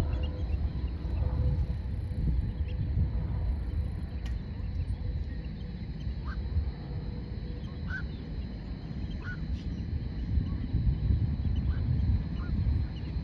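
Birds giving short, rising calls, about half a dozen in the second half, over a loud, uneven low rumble.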